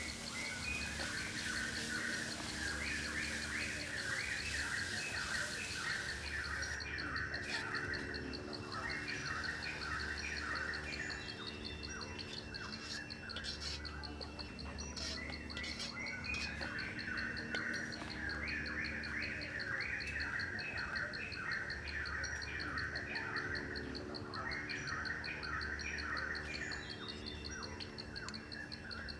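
Outdoor ambience of birds chirping in short bursts of phrases that come back every few seconds, over a steady high insect trill.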